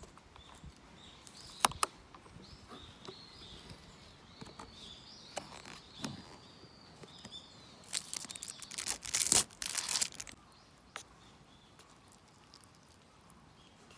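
A small bird calling for several seconds, with a sharp click early on. About eight seconds in comes a loud couple of seconds of rustling, crinkling noise.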